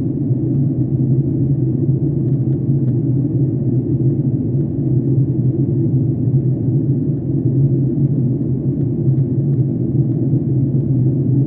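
Steady low drone of a jet airliner's cabin in flight, engine and airflow noise heard from a passenger seat.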